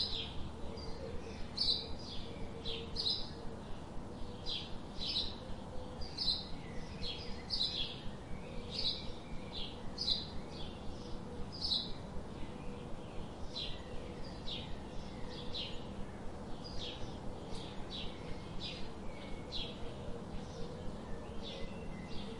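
Birds chirping: short, high chirps repeated about two or three times a second without a break, over a steady low background hiss.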